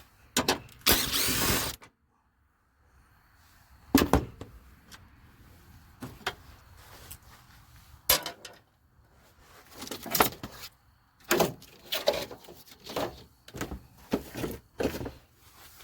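Hand tools clanking against metal while a socket wrench and extension are readied to undo fan shroud bolts: a rough scraping rattle about a second in, then scattered sharp knocks and clinks that come more often near the end.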